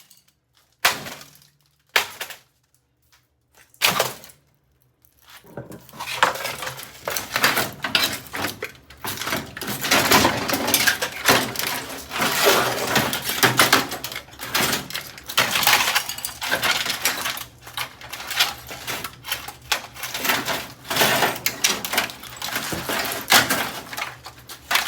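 Samsung over-the-range microwave oven being smashed apart. A few separate sharp blows come in the first seconds, then dense, continuous crashing and clattering of breaking parts and loose pieces.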